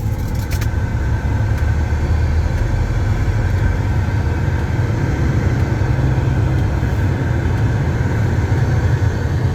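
Semi-truck diesel engine running steadily, heard from inside the cab: an even low rumble with a faint steady whine above it.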